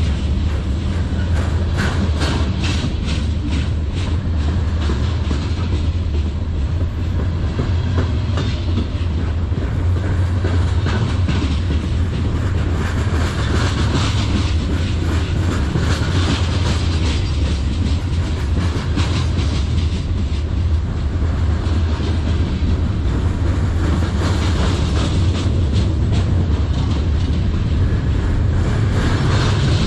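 Freight train cars (covered hoppers, then gondolas) rolling past at close range: a steady low rumble with the clickety-clack of steel wheels over rail joints, the clicks thickest in the first few seconds.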